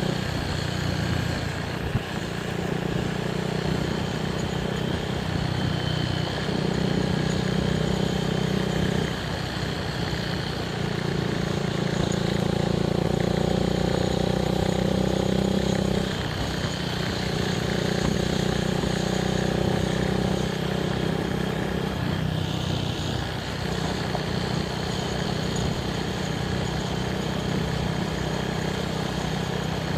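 Small single-cylinder motorcycle engine of a Honda Grom running while riding along a dirt road. The engine note steps up and down every few seconds as the throttle is opened and eased off.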